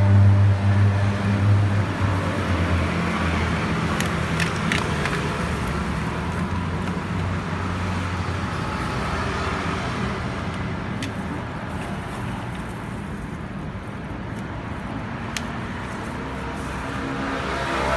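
Kymco G3 scooter engine running at idle, strongest in the first couple of seconds and then settling lower; the idle noise is the one the owner puts down to a failing clutch. A few light clicks are heard along the way.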